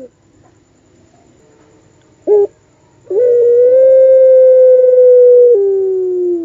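Puter pelung dove cooing: one short note, then a long, drawn-out coo that is held steady, steps down in pitch and slides lower as it fades. This is the long, wailing 'wolf-like' coo the breed is kept for.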